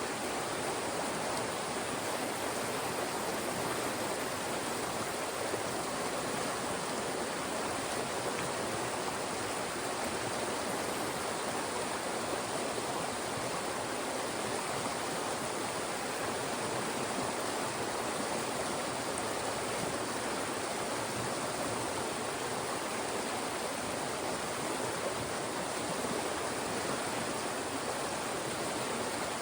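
Fast-moving mountain stream rushing through channels between rocks: a steady, even rush of water with no breaks.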